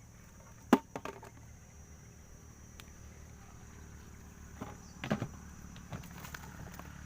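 A few sharp clicks and knocks, the loudest about a second in and a small cluster after five seconds, over a low steady rumble and a thin, steady high tone.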